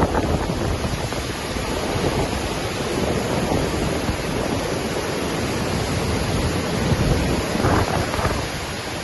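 Waterfall rushing in a steady roar of falling water, with wind buffeting the microphone in uneven low gusts.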